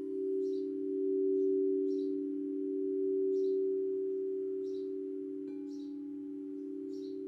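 Singing bowls ringing in a long, steady low hum that swells and fades slowly. Another bowl is struck about five and a half seconds in, adding a higher ringing tone. A bird chirps high and short about once a second throughout.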